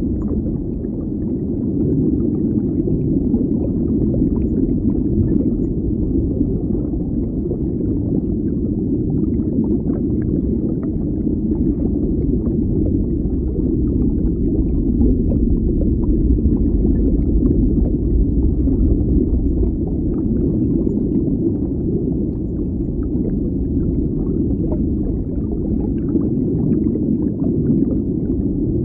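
Underwater ambience: a steady, muffled low rumble with faint crackling over it.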